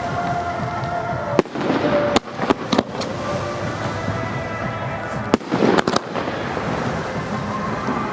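Fireworks display: aerial shells bursting with sharp bangs, a cluster of several reports a second or two in and another pair about two-thirds through, over the continuous crackle and rumble of the show.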